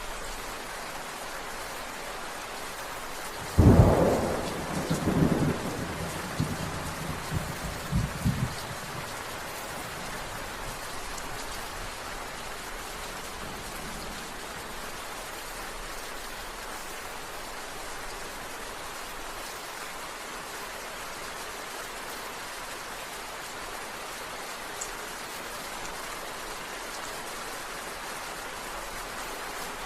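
Steady rain falling, with a thunderclap about four seconds in that cracks sharply and then rumbles on unevenly for several seconds before the rain is left alone.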